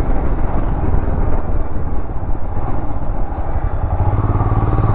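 Royal Enfield Himalayan 411's single-cylinder engine running, a steady low rumble that grows stronger about four seconds in.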